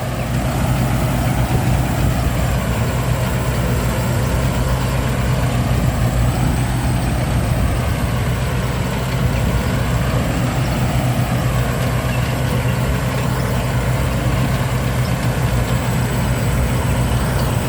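A 20-year-old Diao Thoranong Chao Phayu combine harvester running steadily, its engine giving a constant low hum with a thin high whine above it.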